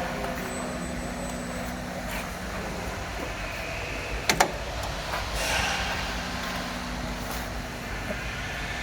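Steady machine hum with a noisy background, broken by two sharp clicks in quick succession a little past four seconds in.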